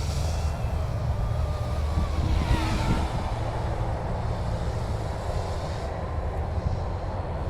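YX Black Hawk UH-60 scale RC helicopter flying, its motor and rotor whine rising and falling in pitch as it moves about, over a steady low wind rumble on the microphone.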